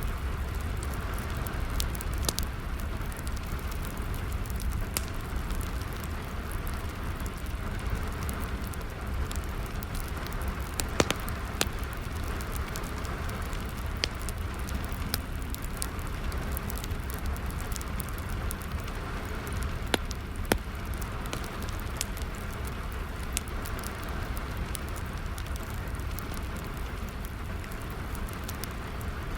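Wood fire crackling, with scattered sharp pops and snaps, over a steady hiss of falling rain and a low rumble.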